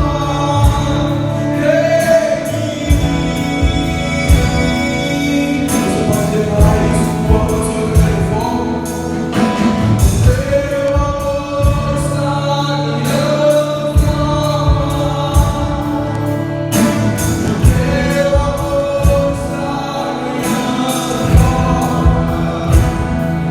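Live worship band playing a gospel song, with voices singing over a steady drum beat and bass.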